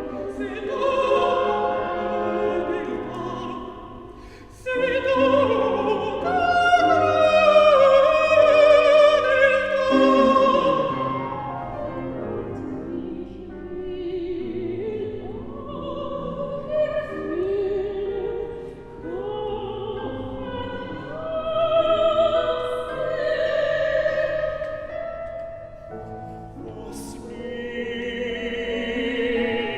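Operatic singing with strong vibrato, in sustained held notes. After a brief dip, a louder phrase comes in sharply about five seconds in.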